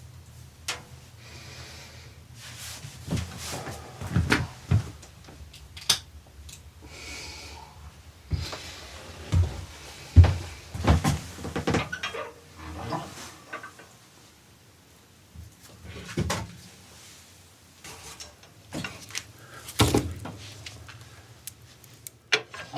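Irregular knocks, clicks and short scrapes of objects being handled and set down, with a quieter pause partway through.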